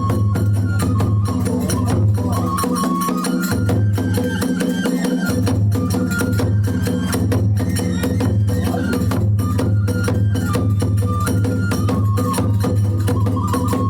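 Kagura hayashi ensemble: a bamboo flute holds a melody that steps up and down, over a dense, steady beat of drum and small hand cymbals.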